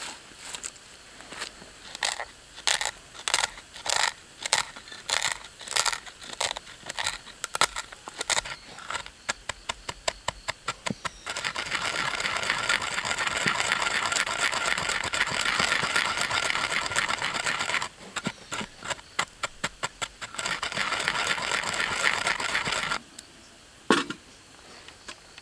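Roasted coffee beans being ground: separate crunching strokes at first, then a continuous grinding rasp that breaks off briefly and stops abruptly, followed by a single click.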